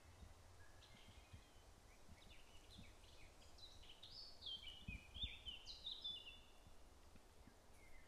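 A songbird singing faintly: a run of short, high whistled notes that grows denser and louder toward the middle and steps down in pitch, over a low outdoor rumble.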